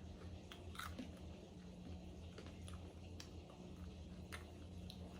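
Faint chewing and scattered mouth clicks of someone eating, over a steady low hum.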